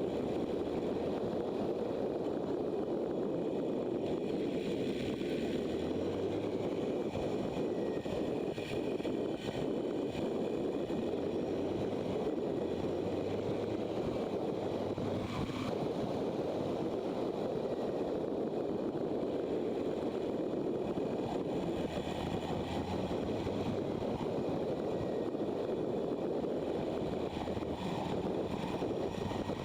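Motorcycle riding at steady speed: engine running with a faint low hum that comes and goes, under a steady rush of wind and road noise.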